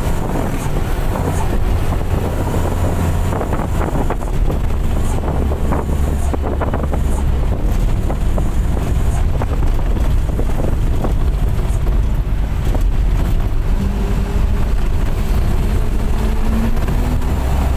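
Bus on the move: a steady low engine drone mixed with road rumble and wind buffeting the microphone. Near the end a faint tone rises in pitch as the engine picks up revs.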